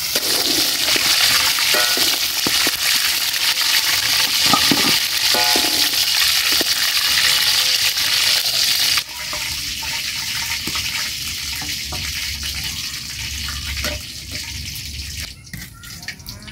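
Chili peppers frying in hot oil in an uncovered pan, a steady sizzle. About nine seconds in the sizzle drops abruptly to a lower level and then fades further.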